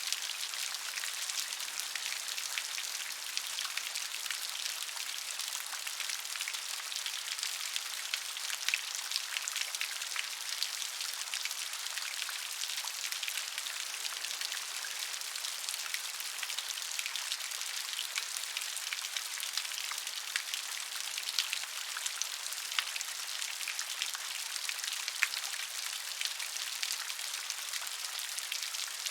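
Steady gentle rain: a constant hiss with many small drop ticks, even in level.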